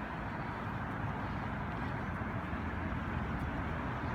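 Steady road traffic noise from a motor vehicle on the street.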